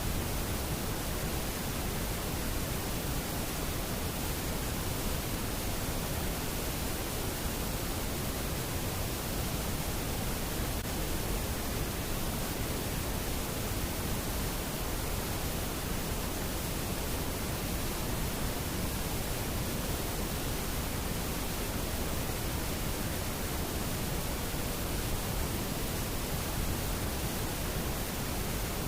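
Waterfall: water falling and rushing as a steady, even roar that does not change.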